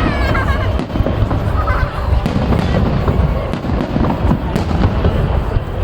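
Fireworks salute: aerial shells bursting one after another in a dense, continuous run of booms and crackles.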